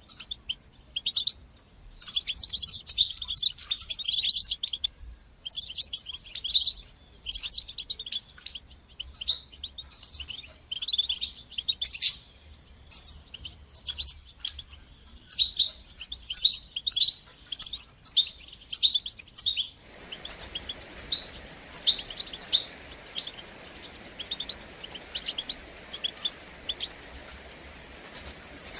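European goldfinch singing: quick twittering phrases of high tinkling notes and trills, in bursts with short pauses between them. About two-thirds of the way through, a steady hiss comes in under the song.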